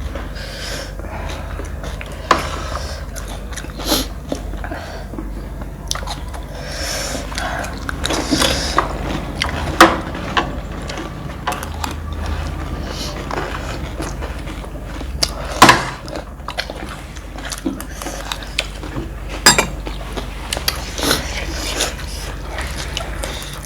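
Close-up crunching and chewing of crisp panipuri and chatpate, with a handful of sharp, louder crunches, over a steady low hum.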